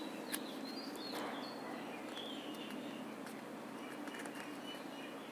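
Faint bird chirps, a few short high calls spread through, over a steady low background hum, with a soft click or two of paper being handled in the first second or so.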